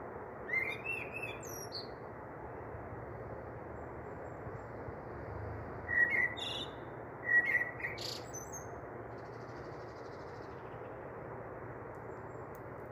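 Small birds chirping in three short bursts of quick rising and falling notes, over a steady low hiss; a sharp click comes about eight seconds in.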